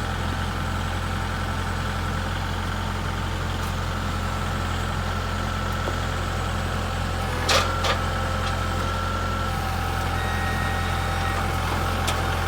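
The engine of the machine lifting the tree runs steadily at idle. Two sharp knocks come a little past halfway.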